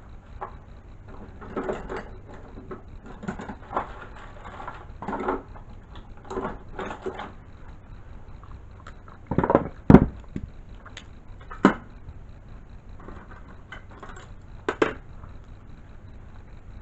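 Scattered handling noises: rustling, clicks and light knocks, with one sharp knock about ten seconds in.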